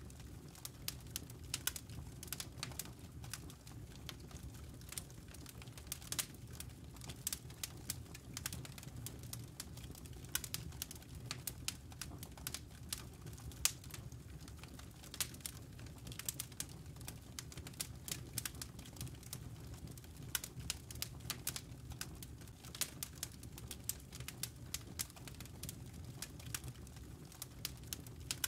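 Burning logs in a fireplace crackling: irregular sharp snaps and pops, several a second, over a steady low rumble of the fire.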